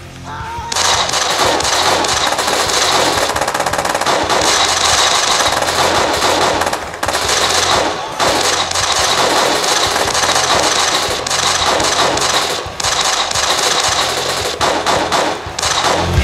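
Rapid automatic gunfire, a dense continuous rattle broken by a few short pauses in the second half.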